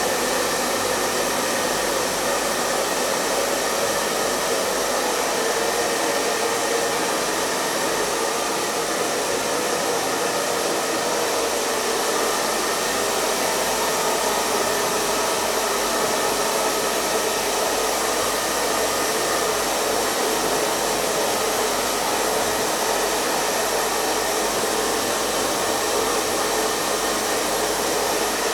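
Hair dryer running continuously: a steady, even rush of blown air with a faint motor hum, unchanging throughout.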